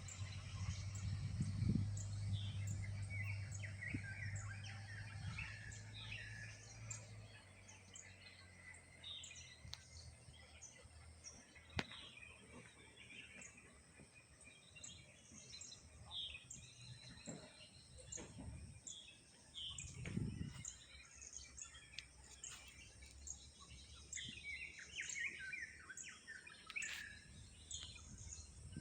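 Birds chirping and calling, with a high ticking call repeating about once a second throughout. A low steady hum sounds under it for the first few seconds.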